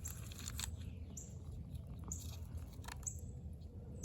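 Toy construction vehicles being worked in soil: a few scattered small clicks, scrapes and brief high squeaks over a low steady hum.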